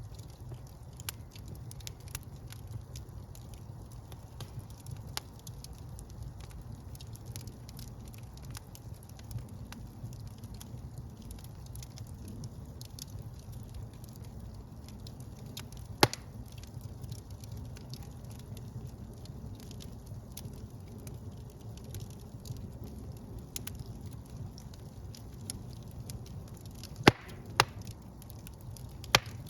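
Wood fire burning in a fireplace: a steady low rumble of flames with scattered crackles, and loud pops about halfway through and twice near the end.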